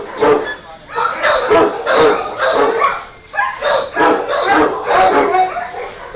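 Dogs barking, one sharp bark after another in quick succession with hardly a break.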